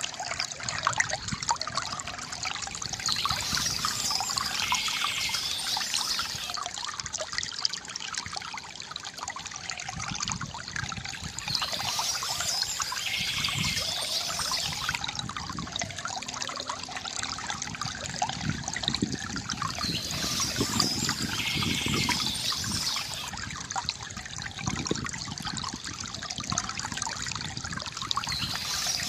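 Water trickling and gurgling steadily from a bamboo fountain spout, with bird chirping coming in about every eight seconds.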